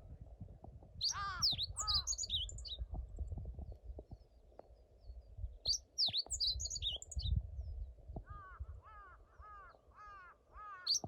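Wild birds calling: a high, quick warbled song phrase three times, about a second in, near the middle and at the very end, plus a run of about seven short arched calls in a row late on.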